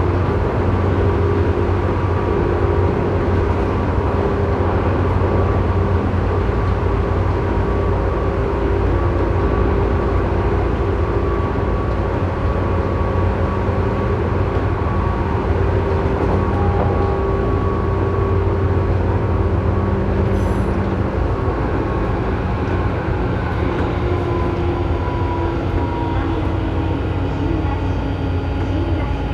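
Tobu 9000 series commuter train running, heard from inside car MoHa 9204 directly above its armature chopper controller, which is known for an abnormal noise. Steady low-pitched chopper tones sit over the running rumble, and some of them change pitch or drop out about two-thirds of the way through.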